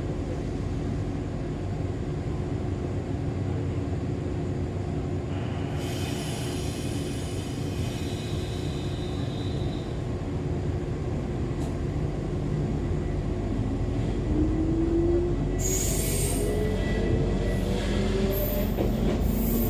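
Running sound inside an Echizen Railway MC6101-series railcar, with its MT54 DC traction motors and gears humming over a steady wheel-on-rail rumble. From about two-thirds of the way in, a motor whine climbs steadily in pitch as the train picks up speed. High hissing, squealing stretches come from the wheels and rails, one around a third of the way in and another near the end.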